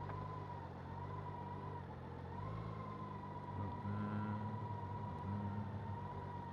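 BMW K1600's inline-six engine running at a low, steady idle-speed crawl in first gear, with a steady high whine over the engine note.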